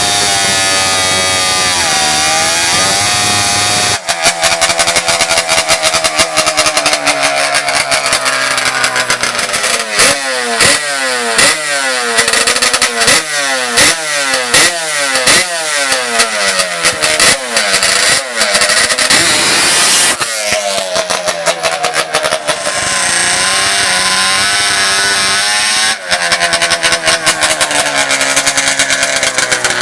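Loud high-revving drag-racing ATV engine. From about ten seconds in it is revved hard over and over, roughly once a second, for about ten seconds, then runs more steadily.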